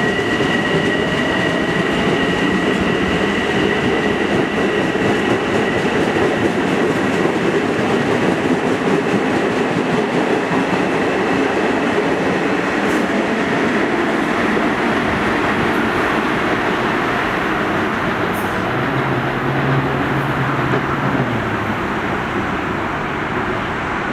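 Long Island Rail Road M7 electric multiple-unit train rolling out of the station: a steady, loud wheel-on-rail rumble with some clickety-clack over the rail joints. A high steady whine fades out over the first few seconds. The rumble eases slightly near the end as the train clears.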